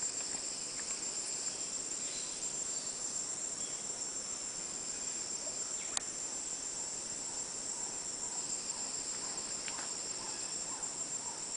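Rainforest insects droning together in a steady, high, even buzz, with a single sharp click about halfway through and a few faint short calls near the end.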